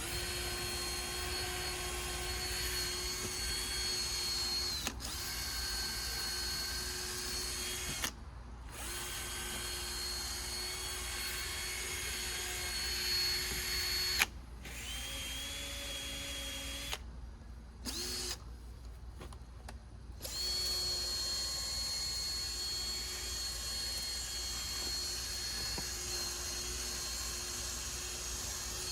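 Power drill spinning a 3M headlight-restoration sanding disc against a plastic headlight lens, with a steady whine. It stops briefly about eight and fourteen seconds in, and again for a few seconds between about seventeen and twenty seconds in, then runs on.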